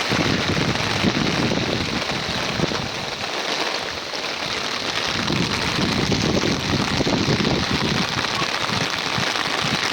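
Heavy rain pouring: a steady, dense hiss, with a low rushing underneath that swells and fades.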